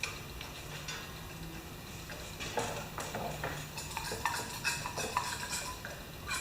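Light metallic clinks, taps and rattles of small parts or tools being handled. They start about two and a half seconds in, and a few give a short ring.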